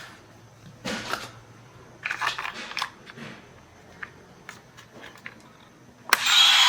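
Small hand-held parts clicking and scraping as they are handled, then a small electric power tool such as a rotary tool or drill starts up near the end and runs at a steady whine.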